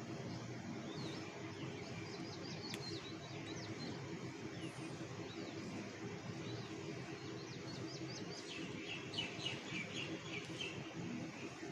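A flock of birds chirping with many short calls, growing busier with a quick run of chirps near the end, over a steady low background din.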